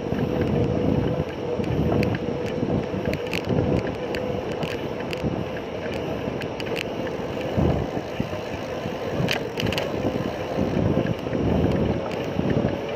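Wind buffeting the microphone on a moving bicycle, a steady gusty rumble with a constant hum underneath and scattered light ticks and rattles.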